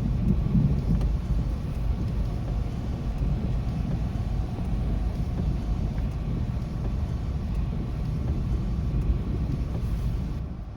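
Long low rumble of rolling thunder, loudest in the first second and slowly dying away, over a steady faint hiss of the storm. The hiss drops away suddenly near the end.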